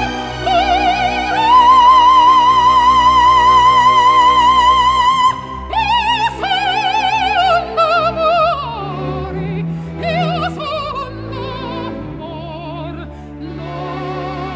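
Operatic soprano singing with orchestra. She holds a loud high note with wide vibrato for about four seconds, then breaks off into shorter phrases, and a softer orchestral passage follows.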